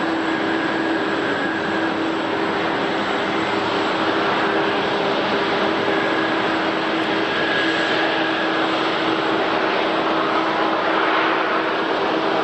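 Jet airliner engines running: a steady, loud rushing noise with a constant low hum and a higher whine that fades in and out.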